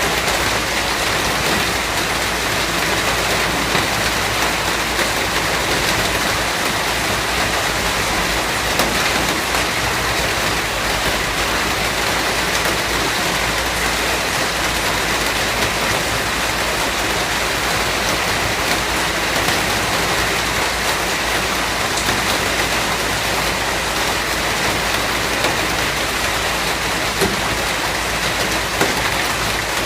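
Steady heavy rain falling, an even hiss with a dense patter of drops.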